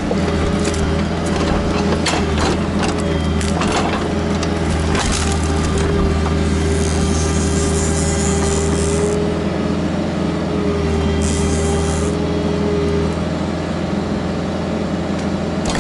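Kubota KX121-3 mini excavator's diesel engine running steadily under a steady whine, with sharp cracks and knocks of wood as it works stumps and roots, most of them in the first few seconds. Two spells of high hiss come and go midway.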